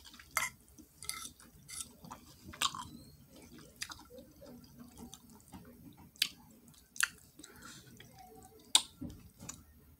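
A person chewing food close to the microphone, with wet mouth clicks and lip smacks every second or so.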